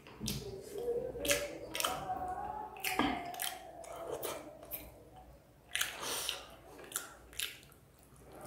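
A person chewing and eating saucy chicken pieces by hand: a run of irregular short clicks and mouth sounds.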